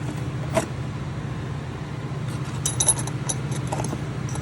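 Small metal parts clicking and clinking as they are handled, most of it in a cluster between about two and four seconds in, over a steady low machine hum.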